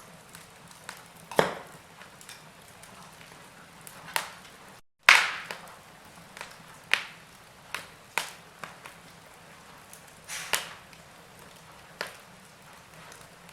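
Wood fire in a fireplace crackling, with irregular sharp snaps and pops about once or twice a second over a soft hiss. The sound cuts out for an instant about five seconds in, and the loudest pop comes just after.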